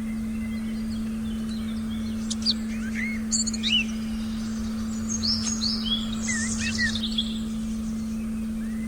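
Forest birds chirping, with a cluster of short calls about two to seven seconds in, over a steady low electronic tone and a faint low rumble.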